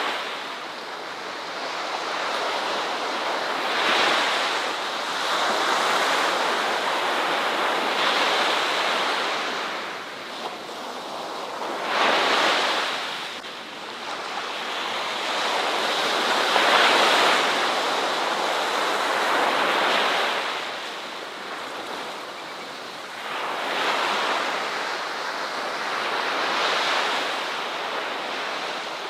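Ocean waves breaking and washing onto a beach, the surf swelling and ebbing every few seconds with no steady rhythm.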